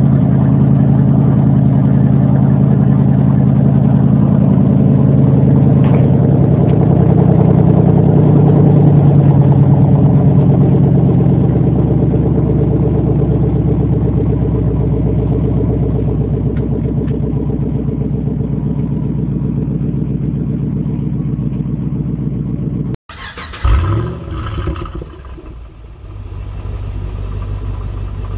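Ford Mustang Boss 302's 5.0-litre V8 just after a cold start, running at a fast cold idle and growing slowly quieter as it settles. About 23 seconds in the sound cuts off abruptly, followed by a few knocks and a different engine idling more quietly.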